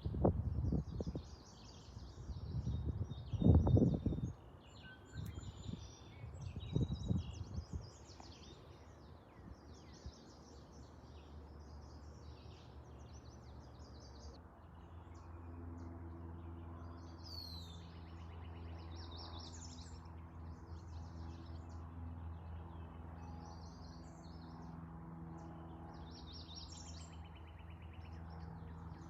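Several wild birds singing and chirping in woodland, with a few low rumbles in the first several seconds. From about halfway a steady low hum joins in.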